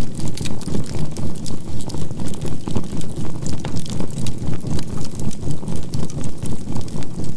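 Campfire crackling with sharp pops from burning charcoal, over a low synthesized healing tone that pulses evenly about four times a second, as two close tones beat against each other.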